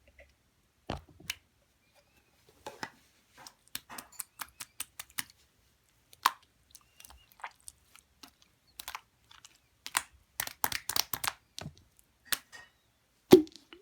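Hands working a marbled shaving-foam slime, making irregular sticky clicks and small popping sounds as it is pressed and stretched. The clicks come thickest about ten seconds in, and there is a louder pop near the end.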